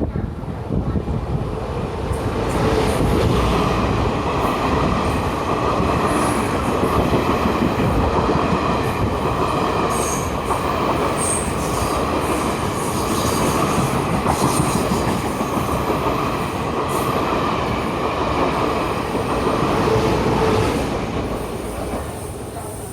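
Taiwan Railways Tze-Chiang express train running past, a steady rumble of wheels on rail that builds over the first couple of seconds and fades near the end, with brief high wheel squeals now and then.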